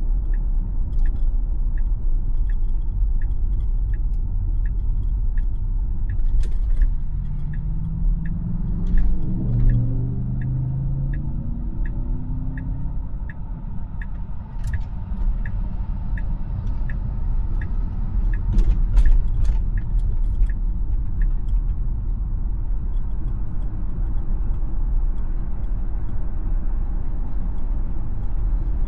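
Tesla cabin noise while driving: steady road and tyre rumble, with the turn-signal indicator ticking about every three-quarters of a second until roughly two-thirds of the way through. A low rising hum passes briefly about a third of the way in.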